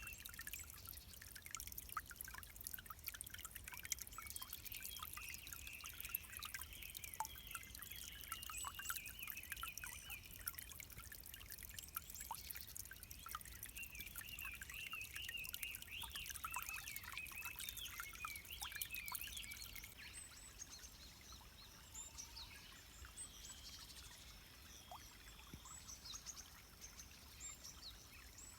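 A small stream trickling and splashing in many little drips, with birds chirping and singing over it. About two-thirds of the way through the splashing hiss drops off suddenly and the water turns quieter while the birds go on.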